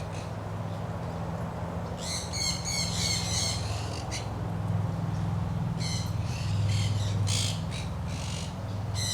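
Parrots squawking: a run of harsh, wavering squawks about two seconds in, then more from about six seconds until near the end, over a steady low hum.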